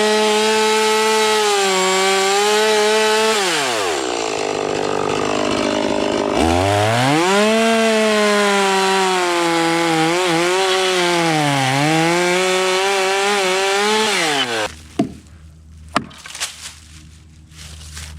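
Two-stroke chainsaw cutting into a dead green ash trunk, its engine pitch dipping and rising under load. About four seconds in the revs fall away for a couple of seconds, then climb again. Near the end the saw drops to a low idle, followed by a few sharp knocks.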